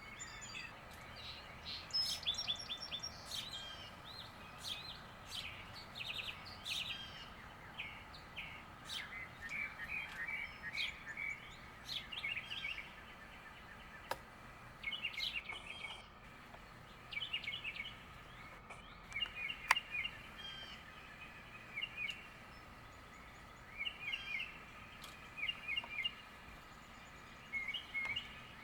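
Small songbirds chirping and calling in short, quick phrases every second or two, several birds overlapping, over a faint steady background hiss.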